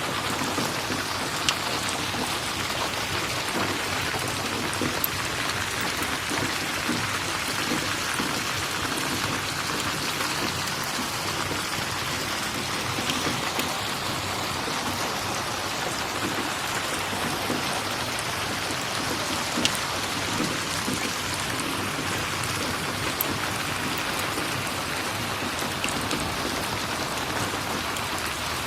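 Steady rain falling, an even hiss of drops with a few sharp ticks now and then.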